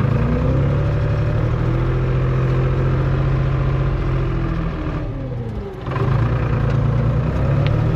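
Tractor engine running steadily while working through snow, its revs dropping about five seconds in and picking back up a second later.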